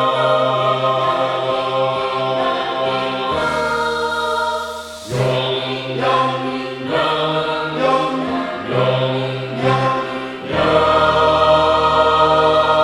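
Choir singing in sustained chords. About three and a half seconds in the voices drop back under a soft hiss, then move in shorter phrased notes, and about ten and a half seconds in a full, loud chord is held.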